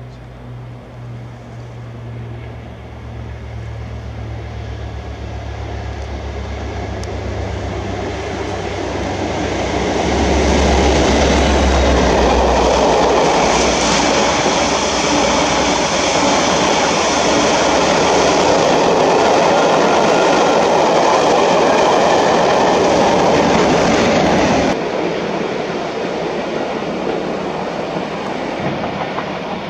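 A passenger multiple-unit train approaches and passes close by at speed. Its low running hum builds into a loud, steady roar of wheels on rail with clickety-clack. Near the end the sound cuts to the quieter approach of a Class 47 diesel locomotive.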